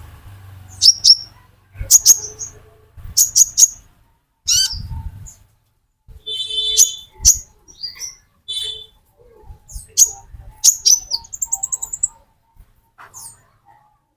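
Male sunbird (kolibri ninja) calling: sharp, high chirps in quick clusters, broken by a couple of buzzy trills and a fast run of notes near the end.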